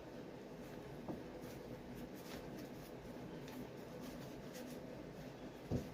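Faint scratching and rubbing as Shoe Goo glue is spread over a rubber boot sole, over a low steady hum, with a small knock about a second in and a louder thump near the end.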